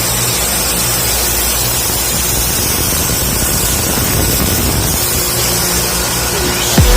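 A machine's engine running steadily under a loud, even hiss. Music comes in just before the end.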